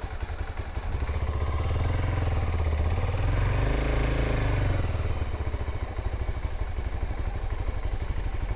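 Honda dual-sport motorcycle engine idling while warming up on a cold morning, a steady fast chugging, its speed swelling slightly and settling about halfway through.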